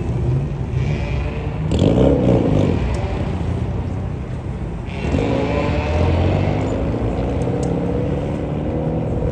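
Car engines running, with one car growing loud about two seconds in and another accelerating with rising pitch from about five seconds in.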